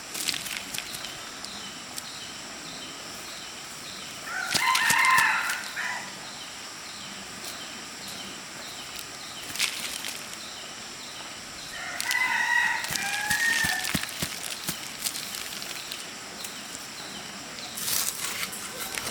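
Rooster crowing twice, each crow lasting about a second and a half, with another crow starting near the end.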